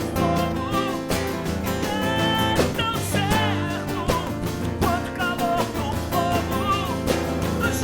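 Live rock band playing an instrumental passage: a lead line with bending notes over bass, drums and keyboards, on a steady beat.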